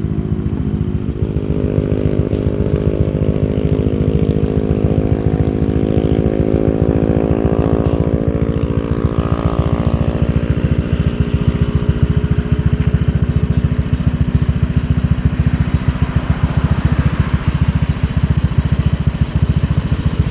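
Motorcycle engine running under way, its pitch climbing gradually over the first several seconds as it speeds up, then holding steady with road noise.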